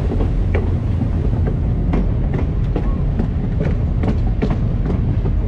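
Train rolling along the track, heard on board: a loud, steady low rumble with irregular clicks and knocks from the wheels and rails.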